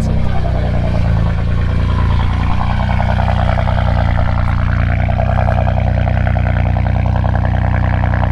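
BMW E92 M3's V8 running at a steady idle just after a cold start, heard through a Meisterschaft GT2 exhaust with the X-pipe removed.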